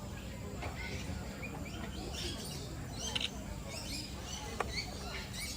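A mix of many birds chirping and calling at once: short high chirps and whistles overlapping throughout, over a steady low background noise, with two brief sharp clicks partway through.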